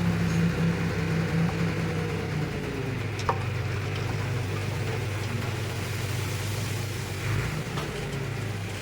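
Heavy diesel engine of earthmoving machinery running steadily, easing slightly in level as it goes, with a short click about three seconds in.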